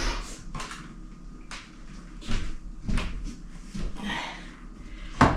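Scattered knocks and clacks of kitchen items being handled and set down, about five in all, the sharpest near the end, with a short rubbing sound about four seconds in.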